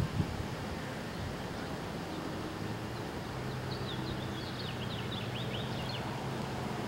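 Outdoor ambience with a steady low hum, and a small bird twittering in a run of quick, high chirps for a couple of seconds midway.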